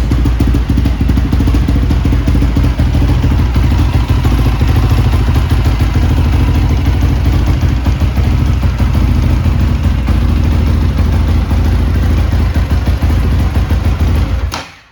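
EGL 450T dirt bike's NC450 single-cylinder four-stroke engine running steadily and loudly. It stops abruptly near the end.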